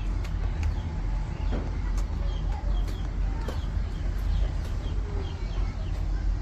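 Chickens clucking, with short calls and scattered sharp clicks over a steady low rumble.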